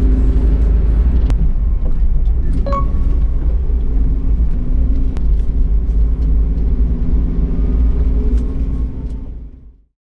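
Car driving, with a steady low road and engine rumble heard from the cabin. It fades out in the last second.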